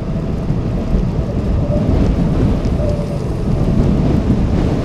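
Strong wind buffeting the microphone on a moving bicycle, a loud, steady low rumble.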